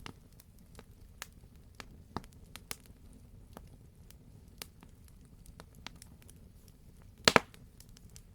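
Wood fire crackling in a fireplace: scattered sharp pops and clicks over a low steady rumble, with a louder double pop about seven seconds in.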